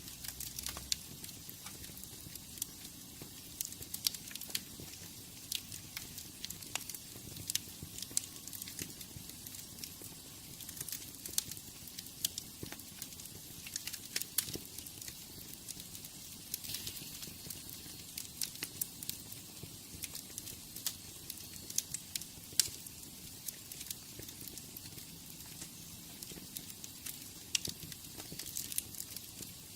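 Wood fire burning in a fireplace, crackling with many sharp, irregular pops over a steady hiss.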